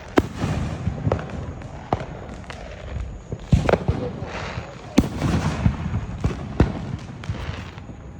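Backyard consumer fireworks going off nearby: a string of sharp bangs and pops, the loudest about five seconds in, with noise between them.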